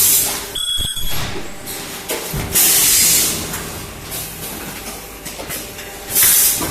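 Plastic welding machine for cylindrical boxes running through its cycle: loud hissing bursts of released air at the start, for nearly a second about two and a half seconds in, and again near the end, with a brief high steady tone just before the first second.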